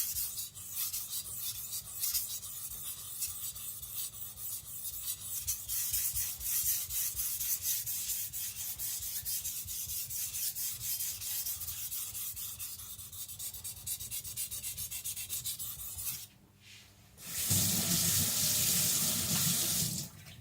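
A Tojiro shirogami nakiri's steel edge rubbed back and forth on a wet Naniwa Professional water stone in quick, evenly repeated grinding strokes, working up a new edge. The strokes stop about sixteen seconds in, and a steadier rushing noise of about three seconds follows near the end.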